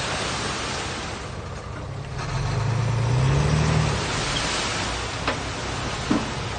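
Diesel engine of heavy earthmoving equipment running, revving up about two and a half seconds in and easing back at around four seconds, over a steady background hiss. Two faint short clicks near the end.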